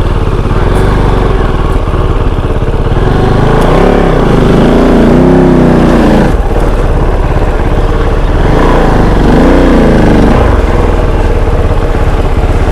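Kove 450 Rally's single-cylinder four-stroke engine running under way, its revs rising and falling twice as the rider works the throttle.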